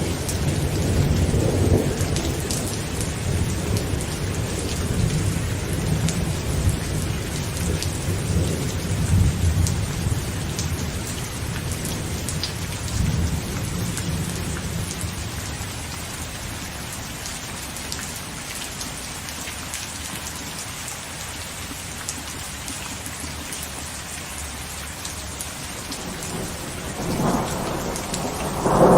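Heavy rain drumming on a tent with fine drop ticks throughout, and thunder rolling low through the first half and fading away. Near the end a new, louder rumble of thunder builds.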